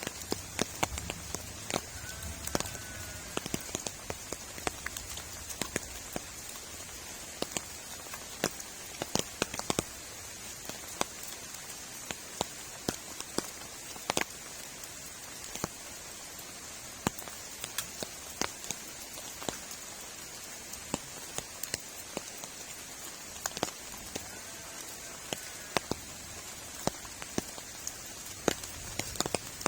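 Steady rain, with many sharp, irregular drop taps on a nearby surface over the hiss.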